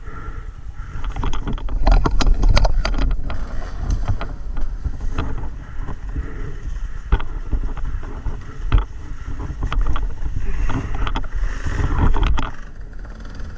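Dirt bike being ridden over rough single-track: a steady low engine rumble with repeated sharp knocks and clatter, thickest about two to three seconds in.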